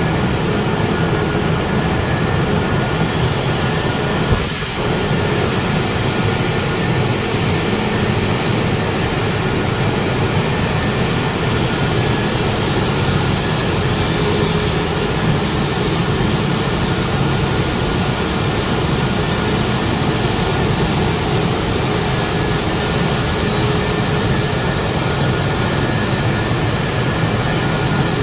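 Wood pellet production line machinery running steadily, a loud even mechanical noise with a faint steady whine in it. A single brief knock about four seconds in.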